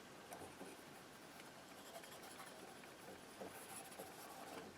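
Faint scraping and light ticks of a painting knife spreading paint across the painting surface, barely above room tone.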